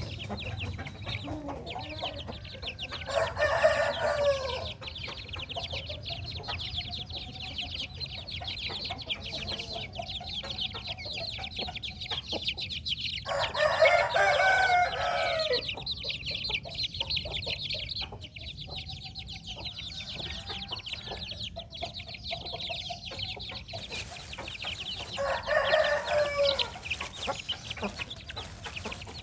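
A rooster crows three times, about ten seconds apart. Between the crows come fainter chicken clucks, over a constant high-pitched chirring.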